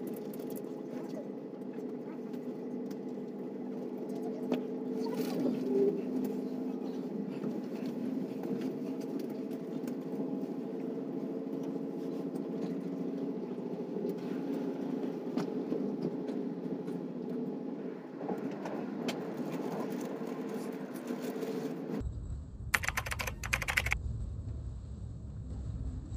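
Steady running hum of a moving electric passenger train heard from inside the carriage, several fixed tones with faint scattered clicks. About 22 seconds in the sound changes abruptly to a deeper rumble with a short cluster of sharp knocks.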